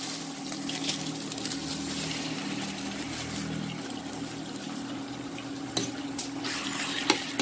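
Onion and ginger sizzling in oil in a stainless wok while raw chicken pieces are added and stirred in, with a metal spatula clacking and scraping against the pan in a few sharp knocks near the end. A steady low hum runs underneath.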